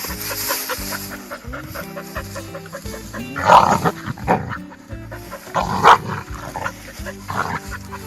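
A dog barking several times over background music; the two loudest barks come about two seconds apart in the middle.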